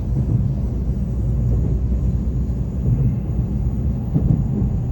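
Train running: a steady low rumble.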